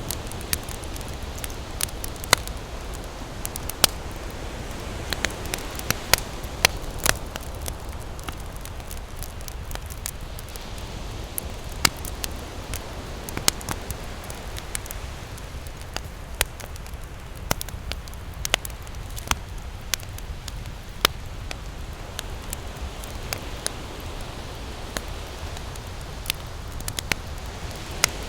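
Campfire crackling, with sharp irregular pops and snaps several times a second, over a steady rush of ocean waves.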